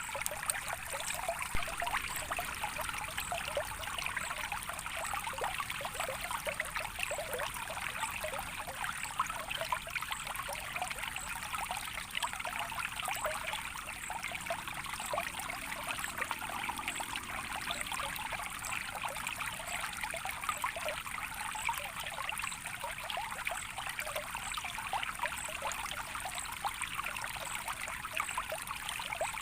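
Small stream of water trickling and splashing steadily, without a break.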